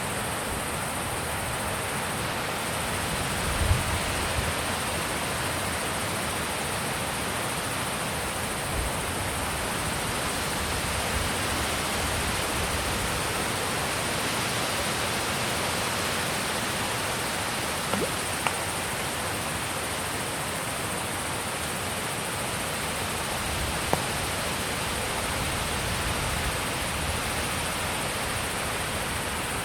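Mountain wind blowing steadily with a constant rushing, with a few brief low gusts buffeting the microphone about four and nine seconds in and a couple of faint clicks later on.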